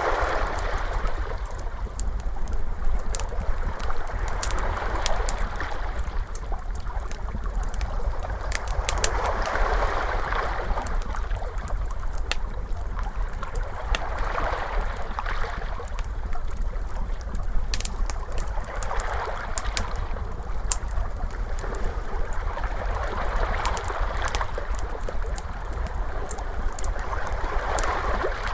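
Ocean waves washing in slow swells every four or five seconds, over a low steady rumble, with the sharp pops and crackles of a wood fire scattered on top.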